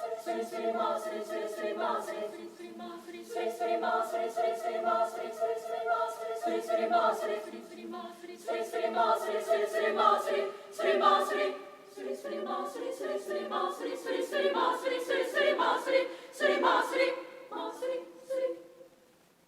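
A women's choir singing, the voices stopping about a second before the end.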